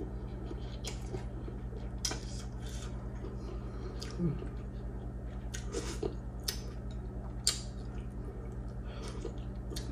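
Close-up eating of noodles: scattered wet mouth smacks and short clicks of chewing, a second or so apart, over a steady low hum.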